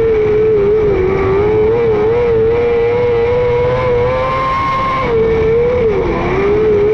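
A micro sprint car's 600cc motorcycle engine runs hard at high revs. Its pitch dips briefly twice, about a second in and again near the end, as the throttle is eased for the turns, then climbs back up.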